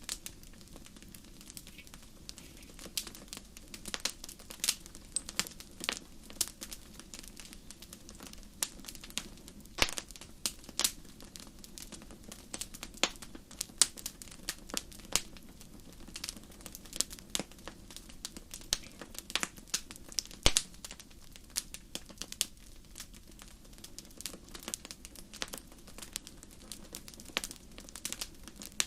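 Wood fire crackling: irregular sharp pops and snaps, several a second at times, over a low steady hiss of burning logs.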